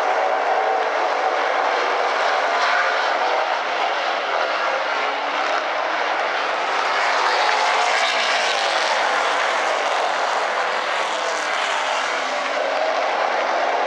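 A pack of super late model race cars with V8 engines running hard around the oval. The engines form a dense, steady drone with wavering pitch as cars pass, swelling slightly about halfway through.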